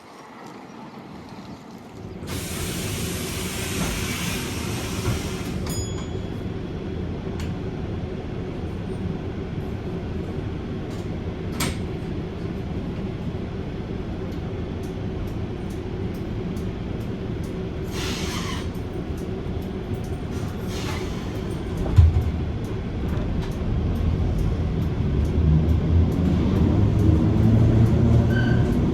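Heritage tram running on rails: a steady rumble with a hum that starts suddenly about two seconds in, with a burst of hiss just after it starts. There are scattered clicks, a single knock about two-thirds of the way through, and the rumble grows louder near the end.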